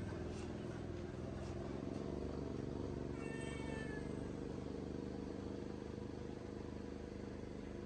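A cat meows once, briefly, about three seconds in, over a steady low hum.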